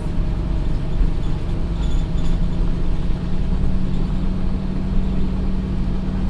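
Scania OmniCity N230UD double-decker bus's diesel engine running steadily, with a low drone that settles onto one steady pitch about two seconds in.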